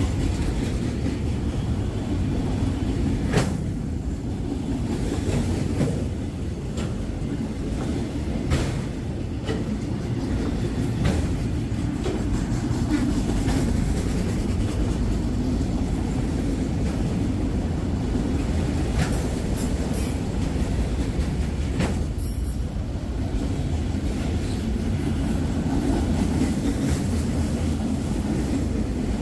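Freight train rolling past: a steady low rumble of cars on the rails, with a few sharp clicks here and there.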